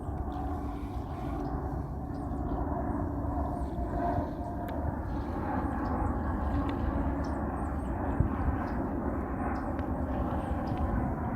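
Embraer ERJ-190 jet airliner on approach, its turbofan engines making a steady rumble that grows slightly louder.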